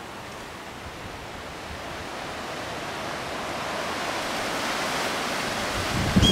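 Steady hiss of rain falling on vegetation, growing gradually louder. A brief high bird call cuts in right at the end.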